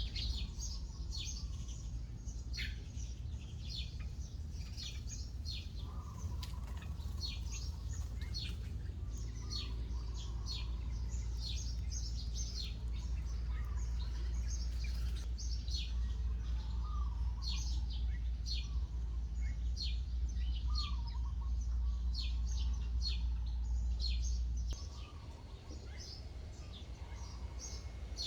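Birds chirping: many short, sharp, high notes repeated rapidly, with a few lower warbling calls among them. A steady low rumble runs underneath and stops about 25 seconds in.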